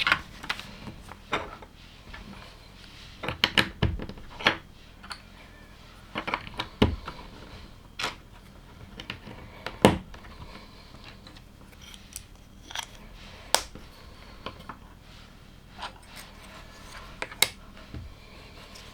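Plastic LEGO bricks clicking and tapping as pieces are handled and snapped together, in irregular sharp clicks a second or so apart.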